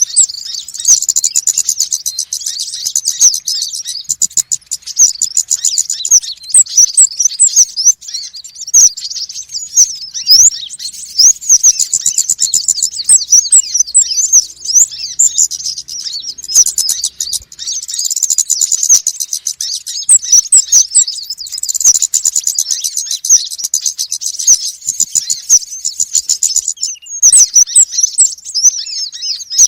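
A noisy chorus of small sunbirds, the konin and wulung of Indonesian bird-keepers, calling excitedly. Rapid, high, thin chirps and short twittering glides overlap without a break.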